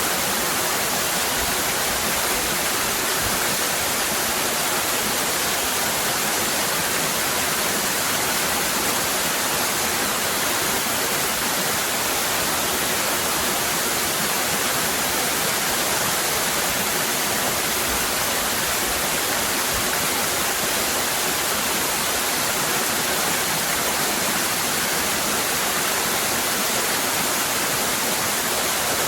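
Waterfall cascading in a steady, unbroken rush of falling water.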